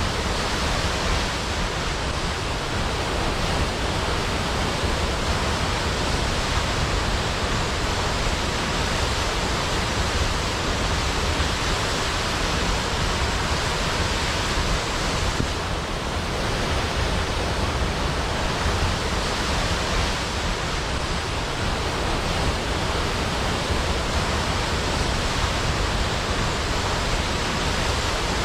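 Large waterfall cascading into a pool: a steady, dense rush of falling water.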